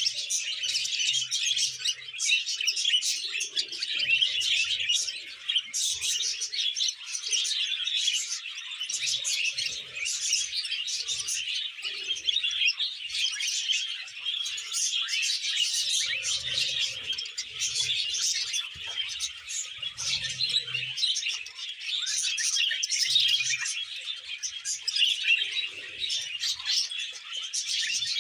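Budgerigars chattering and warbling: a dense, unbroken stream of quick high chirps and twitters.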